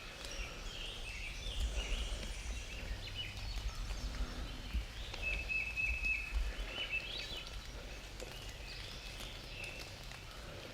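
Songbirds singing, scattered high chirps and whistles, with one bird giving a quick run of repeated high notes about halfway through, over a steady low rumble.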